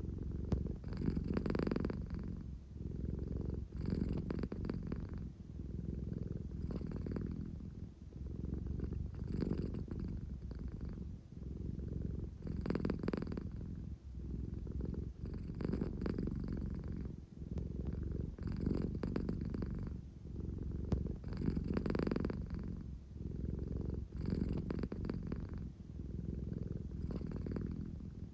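An American Shorthair cat purring steadily close to the microphone, the low purr swelling and easing with each breath about every three seconds.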